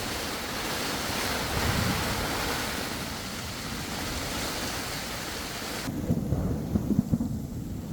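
Heavy thunderstorm rain hissing with wind. About six seconds in, the hiss cuts off abruptly, leaving low, gusty rumbling with several sharp thumps.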